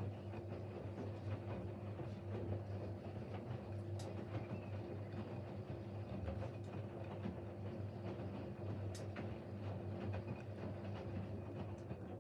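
Siemens Siwamat Plus 574 washing machine's motor turning the drum in a rinse cycle: a steady hum with a few faint clicks. It cuts off suddenly at the very end as the drum stops.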